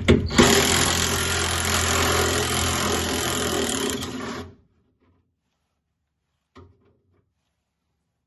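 Power tool running steadily for about four seconds on a seized screw that holds the door glass, then cutting off; a brief faint knock follows.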